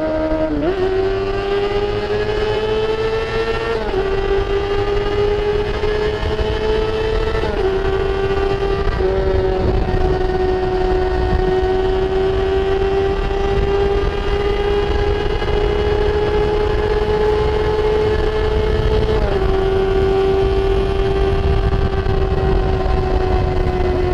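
Kawasaki ZX-6R's inline-four engine, restricted to 48 PS, running under way and heard from the rider's helmet: the engine note climbs and drops sharply with three quick upshifts in the first eight seconds, then holds a steady high note with a slow rise, and drops once more with another upshift about nineteen seconds in, over a constant low rumble.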